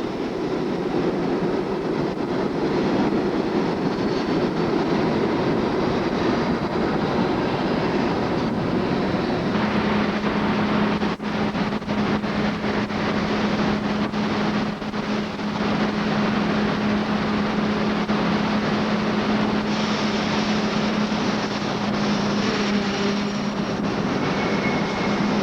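New York City subway work train of R22 and R30 work motors hauling refuse flat cars, running on the rails with wheel clatter. A steady low hum sets in about ten seconds in.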